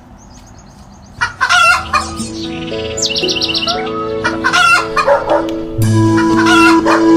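Chickens: a rooster crowing and hens clucking, three loud calls in all, with a short run of high chirps in between. Background music with held notes comes in about two seconds in.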